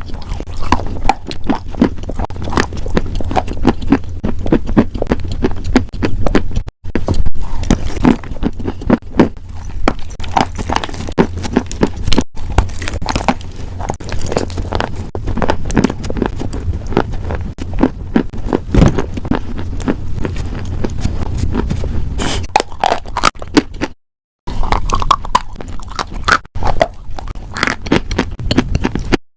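Close-miked ASMR crunching and chewing of crisp food, loud, dense and irregular crackles and bites. Three brief silent gaps break it up, about 7, 12 and 24 seconds in.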